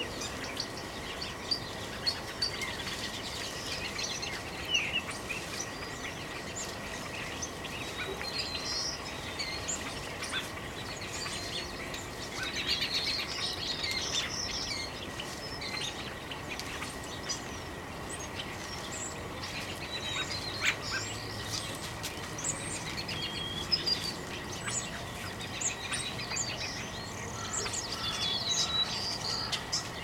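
Many small songbirds chirping and calling, short high chirps and brief whistled notes overlapping throughout, with a livelier stretch around the middle.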